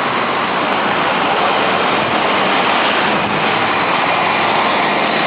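Steady rush of road traffic, vehicles running along a busy road, with a faint low engine hum underneath.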